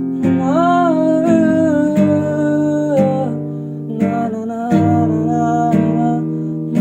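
Acoustic guitar strummed in a steady pattern, with a wordless sung melody gliding over it (humming or "na na") between verses.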